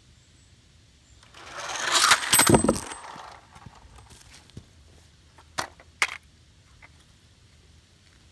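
A clattering, jangling rattle of hard small objects for about two seconds, then two sharp clicks.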